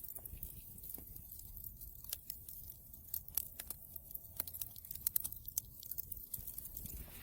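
Wood fire crackling in a fireplace: irregular sharp pops and snaps, several close together, over a low rumble of the flames.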